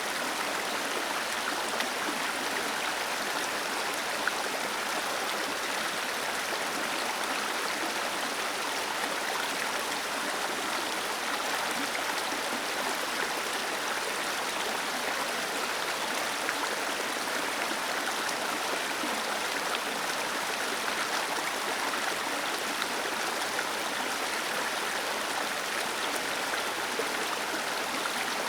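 Waterfall cascading into a stream: a steady, even rush of falling and flowing water.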